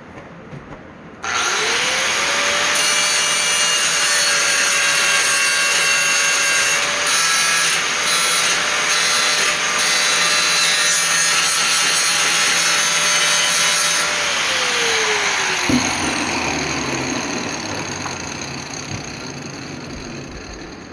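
Angle grinder switched on, its whine rising quickly to a steady pitch while the disc grinds 1/8-inch steel of a bed-frame leg clean for welding. About fourteen seconds in it comes off the metal and is switched off, and the whine falls away as the disc spins down.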